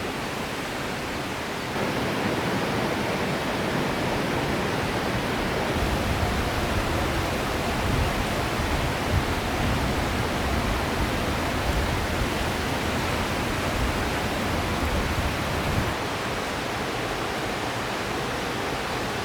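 River water flowing: a steady rush that grows louder about two seconds in and eases back a little near the end.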